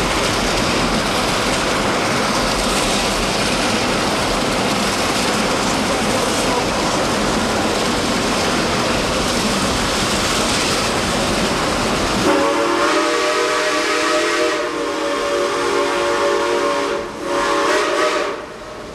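Steady rushing noise of the moving train and creek. About twelve seconds in, a steam locomotive whistle sounds a held chord of several tones, dips briefly, then blows a second, shorter blast near the end.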